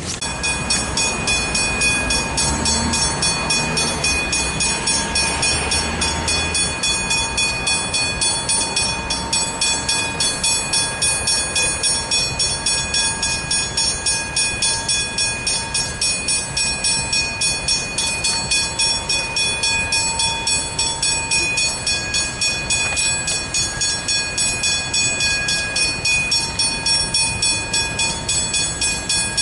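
Railway level crossing bell ringing steadily at about two strokes a second, its ringing tones held throughout, warning of an approaching train. A low rumble lies under it for the first several seconds.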